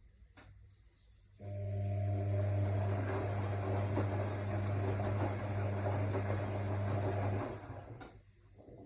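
AEG Lavamat L62850L washing machine turning its drum during the wash. The motor starts suddenly with a steady hum and tumbling noise, runs for about six seconds, then winds down. There is a sharp click just before it starts and another after it stops.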